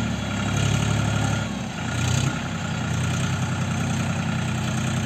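John Deere 5045D tractor's three-cylinder diesel engine running steadily, with a brief drop in level about one and a half seconds in.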